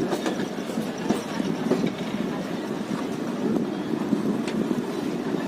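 Passenger train running, heard from on board a coach: a steady rumble with scattered clicks and knocks from the wheels and running gear.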